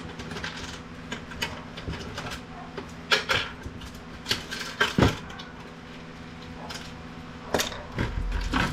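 Clicks, knocks and rattles of a printer's plastic and metal parts and cables being handled and pulled apart during disassembly. The loudest knocks come about three and five seconds in.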